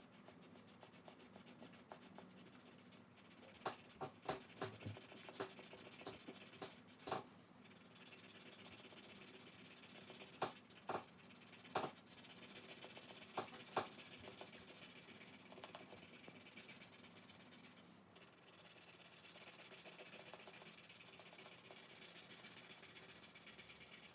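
Coloured pencil scribbling back and forth on paper as a drawing is shaded in, a faint steady scratching. Sharp clicks and taps break in, in a cluster a few seconds in and another around the middle.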